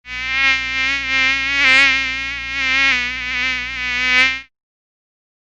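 A flying insect buzzing steadily, its pitch wavering slightly, starting abruptly and cutting off sharply after about four and a half seconds.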